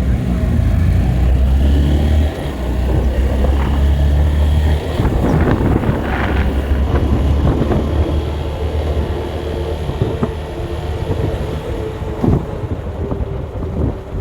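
A vehicle driving along a road, with a steady low engine and road rumble and wind noise on the microphone. The rumble eases off about five seconds in.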